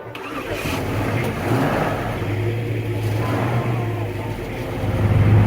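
1988 Chevrolet Monte Carlo SS's V8 engine running as the car pulls away, a low steady rumble growing louder, with a further rise near the end.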